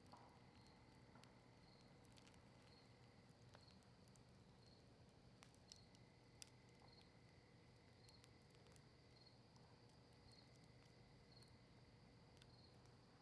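Campfire of cedar leaves and maple wood crackling faintly, with scattered sharp pops; the two loudest come a little under a second apart near the middle.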